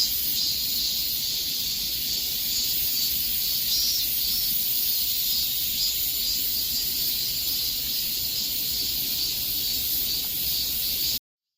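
Cicadas singing in a dense, steady, high-pitched chorus that cuts off suddenly near the end.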